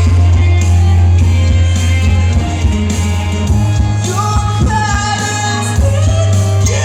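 Loud live music with a singing voice over a heavy, steady bass line.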